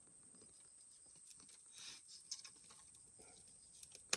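A dog eating: faint chewing and small clicks, with one sharper click near the end.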